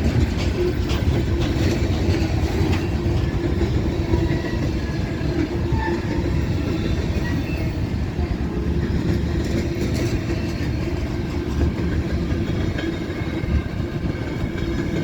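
Freight cars of a Union Pacific manifest train rolling past, the tail of a long consist: a steady, loud rumble of steel wheels on rail with a held low hum and faint clickety-clack.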